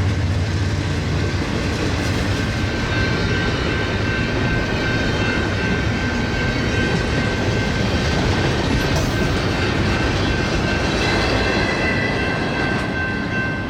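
Freight train passing: the diesel locomotive's engine at first, giving way to the rumble and clatter of freight cars rolling by, with a steady high squeal growing in the second half.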